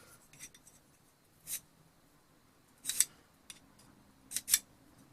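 A few short, scratchy strokes of a sharpening rod against the cutting edge of a vintage auger bit, the last two in quick succession.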